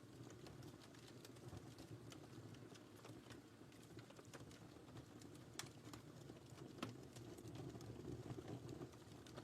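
Faint wood fire crackling: irregular small pops and snaps over a low steady rumble, with a couple of sharper pops a little past the middle.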